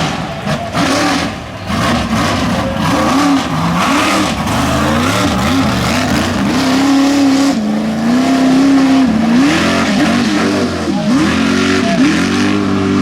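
Mega truck engine revving hard under load through a mud bog. The pitch climbs and falls again and again, holds high for a couple of seconds midway, then dips sharply twice near the end.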